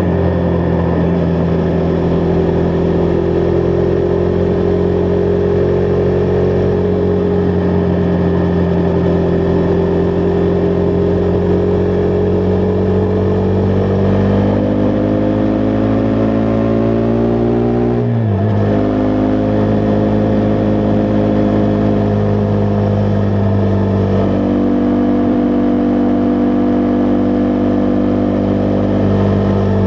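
Husqvarna Vitpilen 401's single-cylinder engine running steadily under way. About halfway through the revs climb for a few seconds, then drop sharply as the rider shifts up a gear, and it settles back to a steady run.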